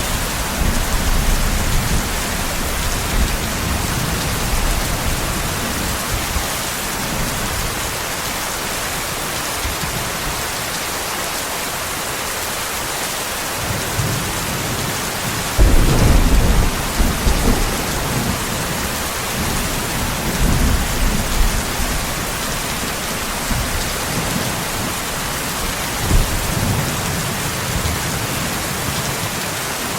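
Steady rain falling in a thunderstorm, with low rolls of thunder. The loudest clap comes about halfway through and rumbles away over a few seconds, and weaker rumbles follow near the end.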